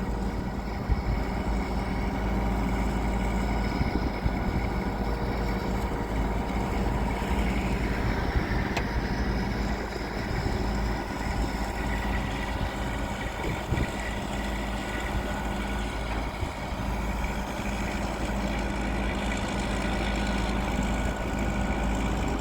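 Mobile crane's large diesel engine running steadily, a constant drone with no breaks.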